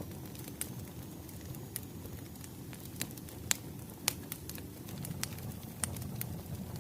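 Wood fire crackling: a steady low rumble with scattered sharp pops, the two loudest a little past halfway.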